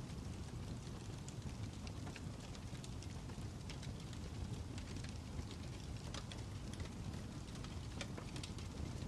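Wood fire crackling: a steady low rumble of flame with frequent irregular sharp pops and snaps.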